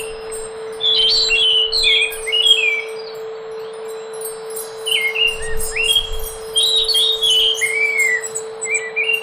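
Scaly thrush (anis macan) singing: groups of short, warbling whistled phrases, one group about a second in and another from about five seconds in, with a pause between. A steady low electrical hum runs beneath the song.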